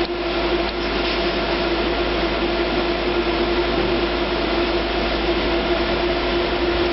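Steady machine hum and rushing noise with one constant droning tone, unchanging throughout.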